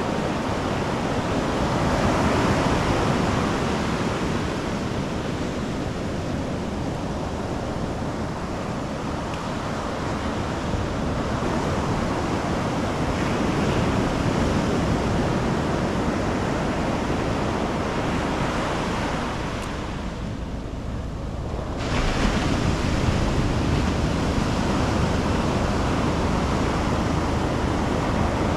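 Ocean surf breaking and washing up the beach as a continuous rushing noise that swells and eases. About twenty seconds in, the higher hiss briefly falls away to a low rumble, then returns suddenly.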